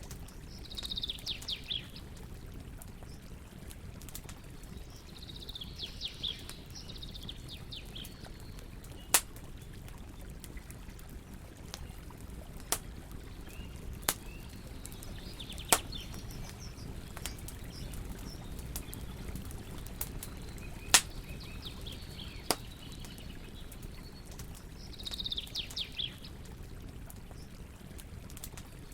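Wood campfire crackling, with a sharp pop every couple of seconds over a low steady rumble. A bird's short chirping trill repeats every four to five seconds.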